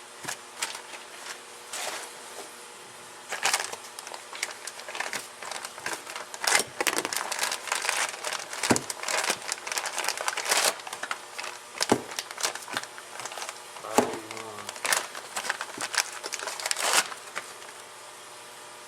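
Packaging crinkling and rustling in irregular bursts as tools are unwrapped and handled, with a few sharp knocks; the handling stops about a second before the end.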